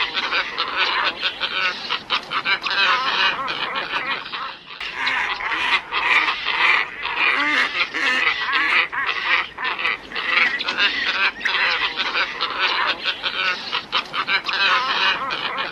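Glossy ibis flock calling, many overlapping calls in a dense, continuous chorus with a brief dip about five seconds in. It is a recorded lure call used to draw in ibises.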